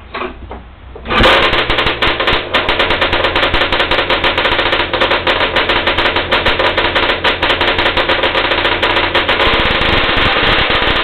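Ski-Doo Blizzard 7500 snowmobile's two-stroke engine catches about a second in and keeps running loudly with a fast, crackling rattle of firing pulses, freshly started after its carburettors were tuned.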